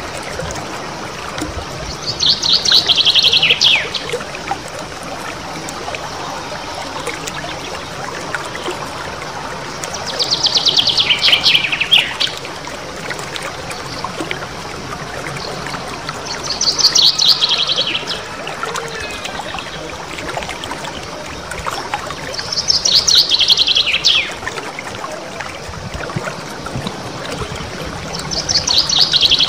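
Small songbird singing a rapid rolling trill, each phrase about two seconds long and falling in pitch, repeated five times about six seconds apart.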